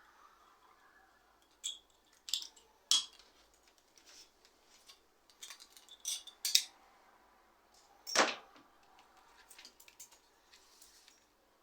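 Metal tools and bicycle parts clinking and clattering in an irregular string of sharp knocks, the heaviest about eight seconds in.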